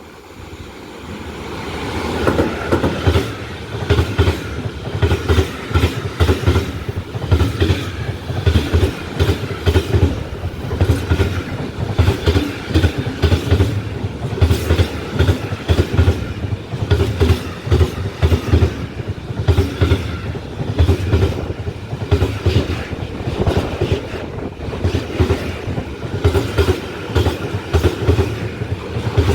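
A train passing close by, its wheels clattering over the rail joints in a fast, uneven clickety-clack over a heavy rumble. The sound builds up over the first two seconds as the train arrives, then carries on steadily.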